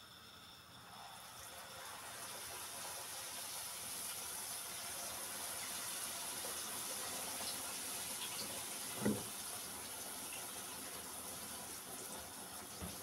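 Water running steadily from a kitchen tap into a sink, with one dull knock about nine seconds in.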